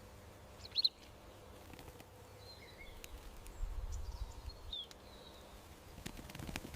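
Outdoor garden ambience with short bird chirps: a sharp chirp just under a second in, then a few fainter chirps. A low rumble sits under it all around the middle.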